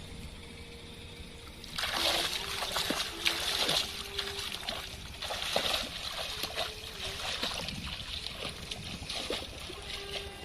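Water splashing and sloshing, starting suddenly about two seconds in and going on in uneven bursts.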